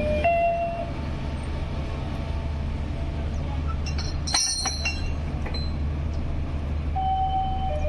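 Steady low rumble of a train standing at a railway station, with a brief high-pitched metallic screech about four seconds in. A station PA chime, a few sustained tones, trails off at the start and begins again near the end.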